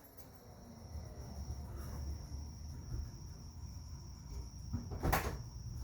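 Crickets chirping steadily in a high, thin drone over a low rumble, with one short sharp knock about five seconds in.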